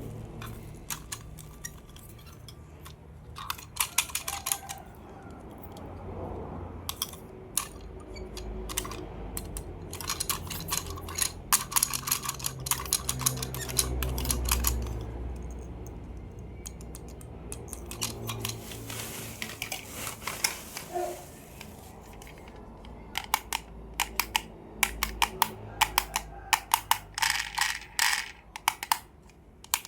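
Plastic toy cars and packaging being handled: clusters of quick clicks and taps, with low handling thumps in between.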